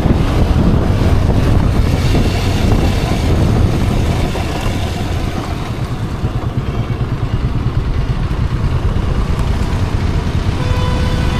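Motorcycle running on the road, its engine rumble mixed with wind rushing over the rider's microphone; the noise eases a little midway and builds again near the end.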